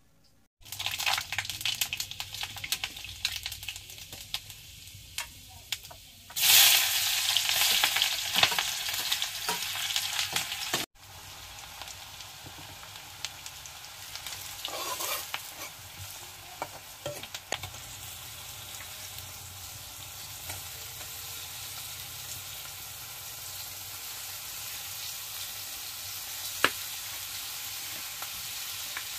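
Food frying in hot oil in an iron kadai, with a ladle stirring: a loud sizzle that starts suddenly about half a second in and flares up louder about six seconds in, then drops abruptly about eleven seconds in to a steadier, quieter sizzle.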